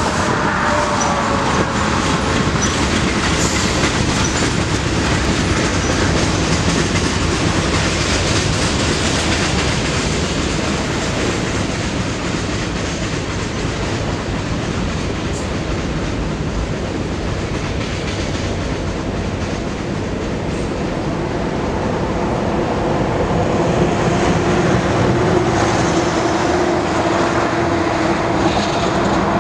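Freight train of loaded flatcars rolling steadily past: wheels rumbling and clicking over the rail joints, with a thin wheel squeal near the start and again in the last few seconds.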